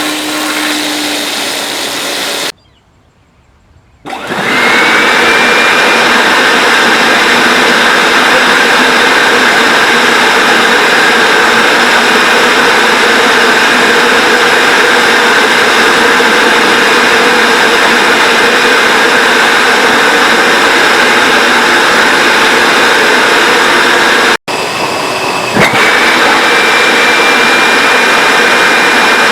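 Hoover Dimension Supreme upright vacuum cleaner's motor running loud and steady. It goes silent briefly a few seconds in, then starts up again with a rising whine. Near the end it cuts out and spins up once more. The vacuum is still running despite the abuse: it "will not die".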